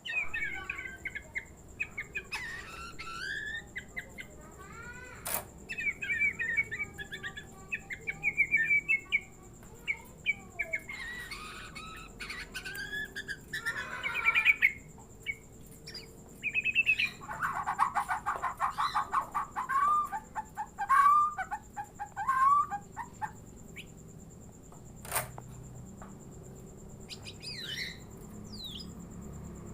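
Murai songbird singing varied whistled phrases and chirps. About two-thirds through comes a stretch of harsh, rapid clucking notes, the bird mimicking a hen. A few sharp clicks stand out.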